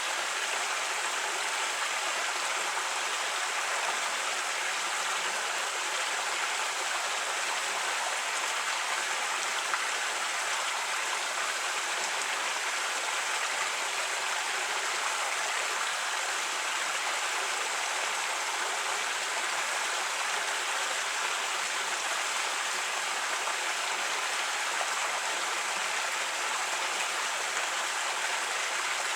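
Creek water flowing and babbling over rocks, a steady, even rush.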